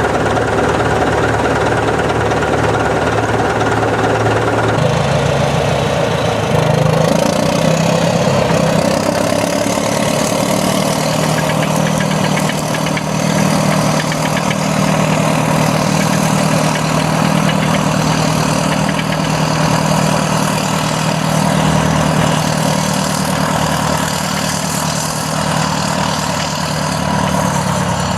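Caterpillar heavy diesel earthmoving engines of a D7E bulldozer and DW20 scraper running steadily while moving dirt. The engine note shifts about five seconds in, and the sound grows fuller soon after.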